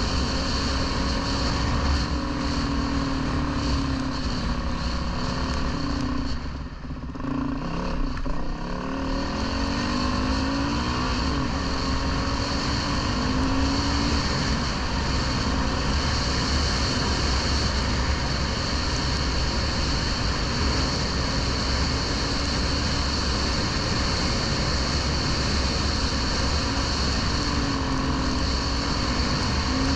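Dirt bike engine running while riding, its pitch rising and falling with the throttle. About seven seconds in the revs drop away briefly, then pick up again.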